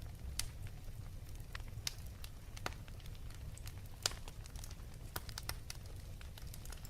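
Fireplace fire crackling: irregular sharp pops over a steady low rumble, the loudest pop about four seconds in.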